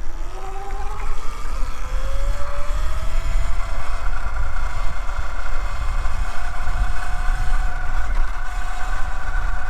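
Segway X160 electric dirt bike's motor whining under way, its pitch rising over the first few seconds as the bike speeds up and then holding nearly steady. Heavy wind rumble on the microphone runs underneath.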